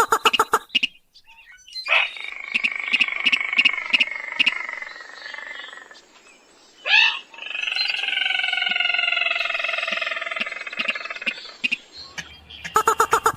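Rail calls from a bird-lure recording of sintar (mandar padi). Fast ticking strokes open it, then two long nasal, buzzing calls of a few seconds each, falling slightly, with a sharp call between them. Rapid ticking returns near the end.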